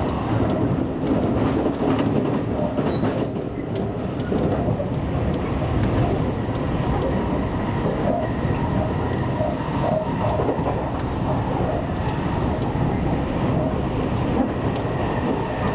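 Seibu Railway commuter train running along the line: steady wheel-on-rail rumble with light clickety-clack over the rail joints and a faint steady whine.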